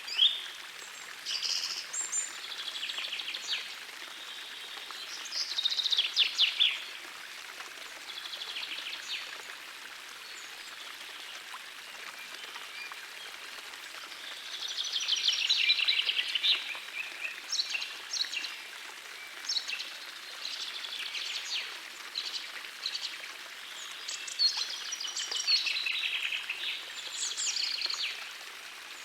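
Songbirds singing in short, repeated bursts of chirps and trills over the steady rush of a gentle forest stream.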